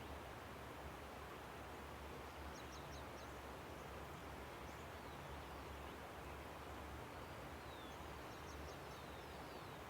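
Steady rush of river water with faint high bird chirps over it: a quick run of four notes about two and a half seconds in, and several short falling chirps near the end.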